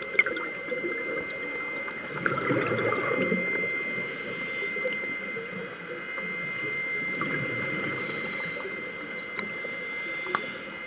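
Underwater sound picked up by a dive camera: a muffled, steady wash of water with faint bubbling and a few small clicks, over a thin, constant high whine.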